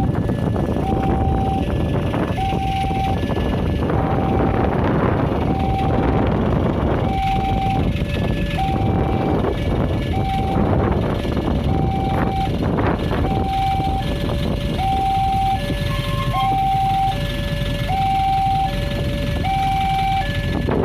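Railway level-crossing electronic warning alarm sounding a repeating two-note high-low pattern, roughly a note a second, over steady road traffic noise: the crossing's warning that a train is approaching.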